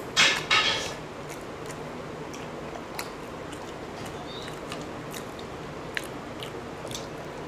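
Eating sounds: chewing and biting on boiled-and-fried eggs. There are two short, louder noisy sounds in the first second, then faint scattered clicks of chewing.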